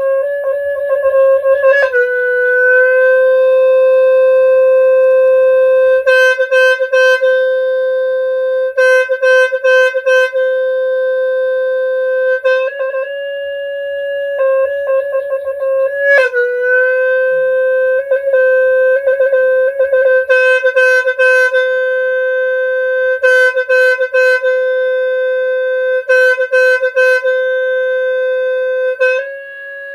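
Khmer snaeng, the traditional free-reed horn, sounding one long held note. The note steps between two close pitches, dropping slightly about 2 s in and again about 16 s in. It is broken by several bursts of quick repeated notes.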